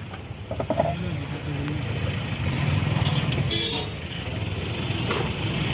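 A motor vehicle engine running steadily, with a few short clicks.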